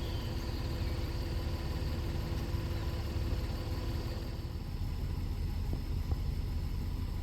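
Steady low rumble of an idling engine, with a faint steady hum that fades about halfway through.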